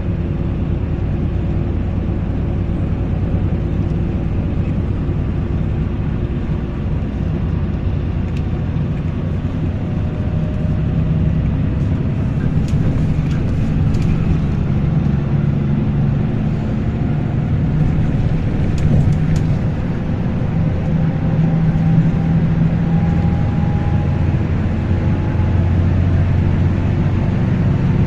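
Strong sandstorm wind blowing on the microphone: a loud, steady low rumble that swells a little about halfway through.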